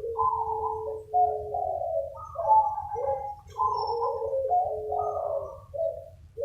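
Several zebra doves (perkutut) cooing at once, their phrases overlapping and answering one another without a break, over a steady low hum.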